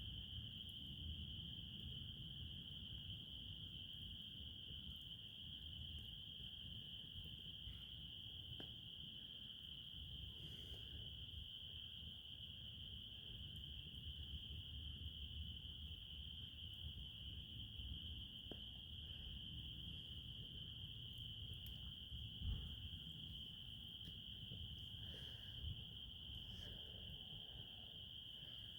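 Crickets trilling in one continuous high-pitched chorus over a low rumble, with a few faint ticks and a single soft thump about two-thirds of the way through.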